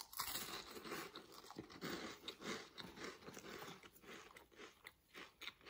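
Faint, irregular crunching of someone chewing flaky, buttery yeast-pastry cheese sticks.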